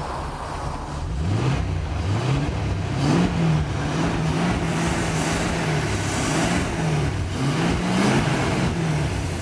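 1973 Rover P6 3500S's 3.5-litre aluminium V8 engine revved twice from idle. The first rise starts about a second in, is held for a few seconds and falls back. The second is a shorter blip near the end.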